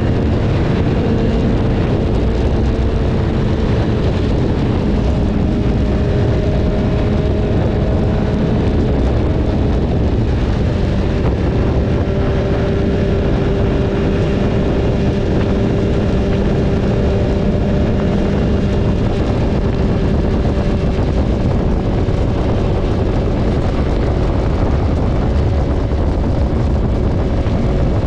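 BMW S1000RR's inline-four engine holding a near-steady note while cruising, its pitch sagging slightly about ten seconds in, under a steady rush of wind and road noise.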